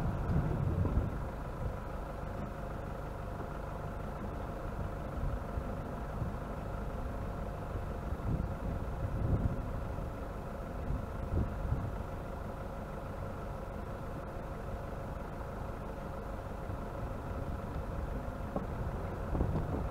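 Off-road vehicle's engine running steadily at low revs, heard from inside the vehicle, with a few brief low rumbles from bumps on the rough track.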